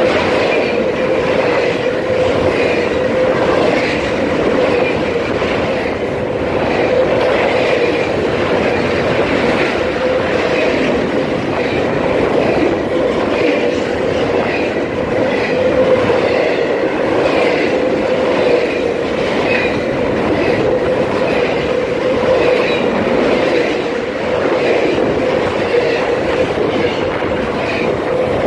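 Loud, steady wheel-on-rail noise of a double-stack intermodal freight train passing close by, its well cars rolling past continuously with a constant hum and faint clicks of wheels over the rails.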